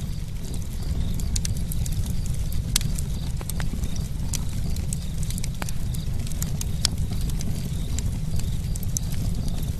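Campfire burning, the wood crackling with frequent sharp, irregular pops over a steady low rumble of the flames.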